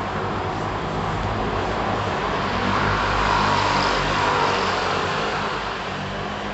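Urban traffic noise, with a road vehicle passing close by: the sound swells to a peak in the middle and then fades away.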